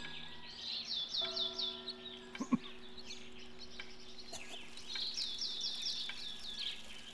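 Small birds chirping in quick runs of short falling chirps, twice, with a single sharper call between them, over a few soft held low tones.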